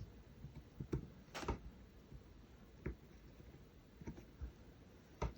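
Faint, scattered clicks and light taps of a small repair tool working in a groove of a Galaxy Z Flip 4 phone's housing, about seven in all, spaced irregularly.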